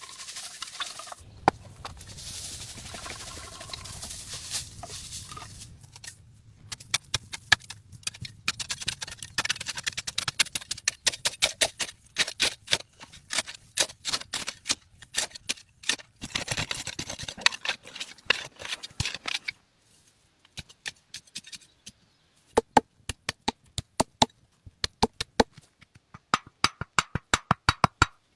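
A long run of short, sharp knocks and cracks in quick, irregular strings, after a few seconds of rustling hiss. Near the end the knocks come more evenly, about four a second, with quiet gaps between them.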